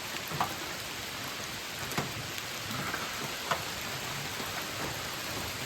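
Steady rain falling, with a few louder single drops ticking close by now and then.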